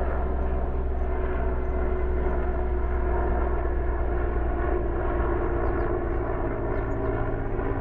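Helicopter flying nearby, its engine and rotor giving a steady, loud low drone with a constant pitch that eases off slightly near the end.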